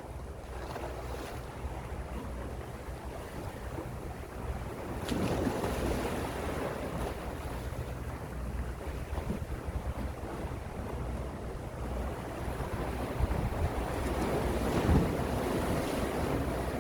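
Gentle sea waves washing in, one swelling about five seconds in and another near the end, with a low rumble of wind on the microphone.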